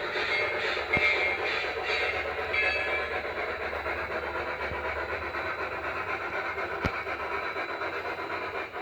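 Phoenix sound module in a G-scale LGB/Aster three-truck Shay model locomotive playing a steady rhythmic steam chuff, with a low rumble and a couple of sharp clicks.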